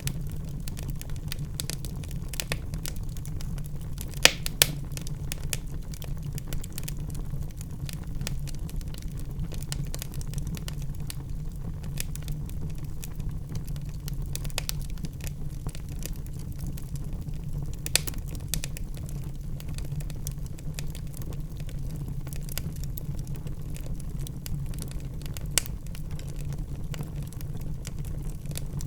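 Wood fire in a fireplace crackling over a steady low rumble of the flames, with a couple of louder sharp pops about four seconds in and single pops around the middle and near the end.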